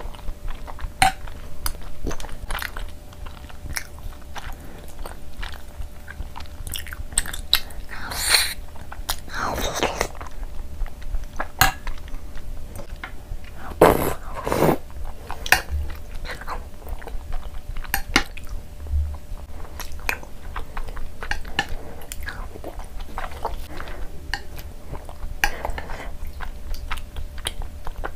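Close-miked chewing of tapioca pearls (boba) in milk, with many wet mouth clicks and smacks and a few louder, longer mouth noises. A metal spoon clinks and scrapes in a glass bowl now and then.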